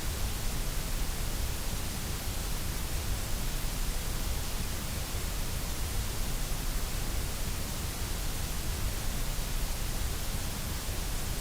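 Steady, electronically generated white noise: an even hiss across all pitches that does not change.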